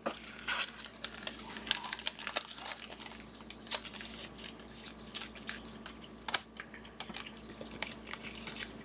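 Irregular crinkling and clicking of plastic and card stock as trading cards, sleeves and pack wrappers are handled, a quick run of small sharp clicks with a few louder snaps.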